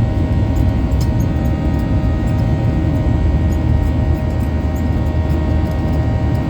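Boeing 737-800 cabin noise in cruise: a steady drone of engines and airflow with a low rumble and several constant whining tones.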